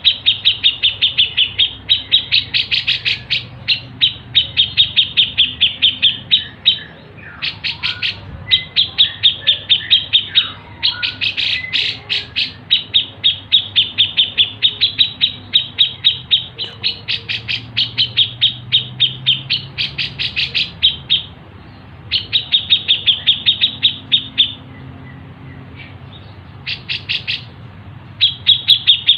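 Masteran recording of songbirds chirping: runs of sharp, high chirps at about four or five a second, each run lasting a few seconds with short breaks between.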